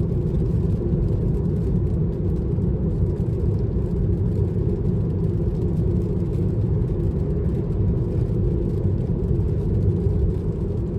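Steady road and tyre noise from a Tesla electric car, heard from inside the cabin while driving at a constant speed, with no engine note.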